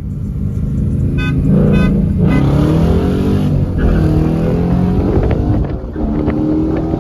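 Dodge Viper's V10 engine being revved through a loud exhaust, its pitch rising and falling repeatedly.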